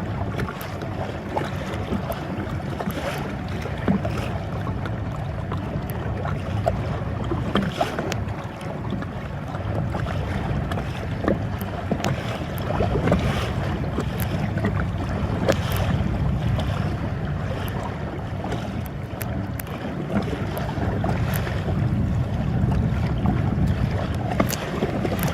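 Water splashing from kayak paddle strokes and lapping against the hull, with wind on the microphone.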